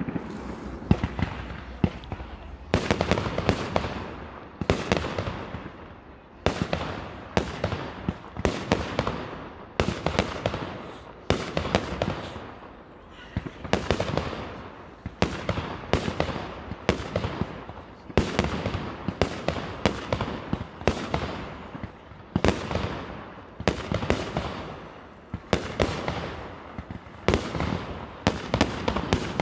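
Aerial fireworks display: shells bursting in a steady run of bangs, about one a second, each trailing off in crackle.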